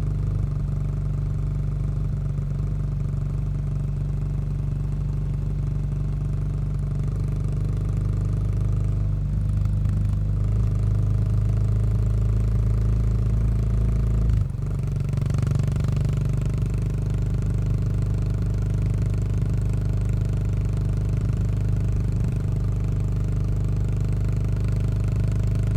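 Yamaha SR400 single-cylinder engine running steadily through a Goods tapered-cone slip-on muffler while riding. The exhaust note drops briefly about halfway through, then carries on steadily.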